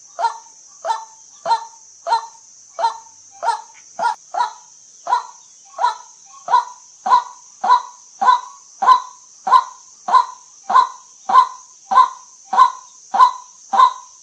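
White-breasted waterhen calling: a steady series of short, harsh 'kwak' notes, about one every 0.6 s, growing louder over the first half. A faint steady high hiss runs underneath.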